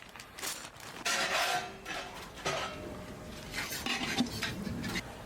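Dishes and cutlery clinking and scraping while food is served and eaten.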